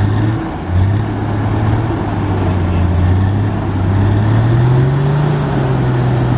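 Off-road 4x4's engine running hard. Its note dips briefly under a second in, holds steady, then climbs as the revs rise around four to five seconds in.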